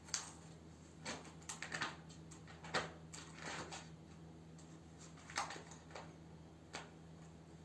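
Kittens at play, making irregular light taps, clicks and scratchy rustles as they bat at and paw things, some in quick clusters, over a faint steady hum.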